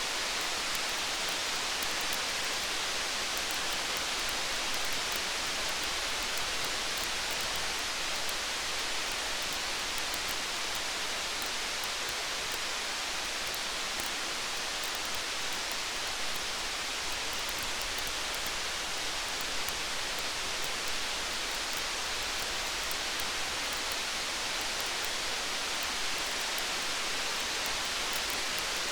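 Steady rainfall, a dense, even hiss with no let-up, with faint scattered ticks through it.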